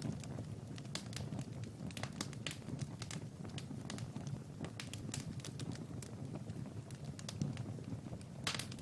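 Wood fire in a fireplace crackling: frequent irregular sharp pops and snaps over a low, steady rumble of burning.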